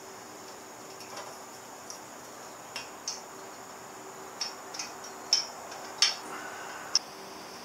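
Metal clinks of a wrench and bolt hardware as a motorcycle exhaust is bolted on: about seven light, sharp clicks at irregular intervals in the second half.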